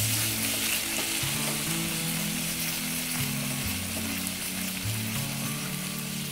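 Capsicum halwa cooking in ghee in a nonstick pan: a steady sizzle from the bubbling ghee as a silicone spatula stirs the thickening mixture.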